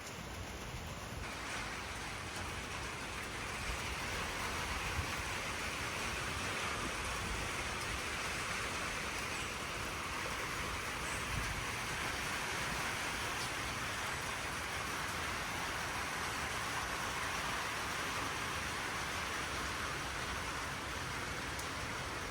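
Steady rain falling and hissing on surfaces, with wind gusting across the microphone underneath; the rain grows a little heavier a few seconds in.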